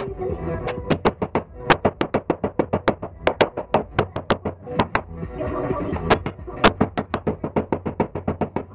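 Rapid hammer taps on a car's sheet-metal body panel, about five or six strikes a second with two short pauses: panel beating to work out a dent.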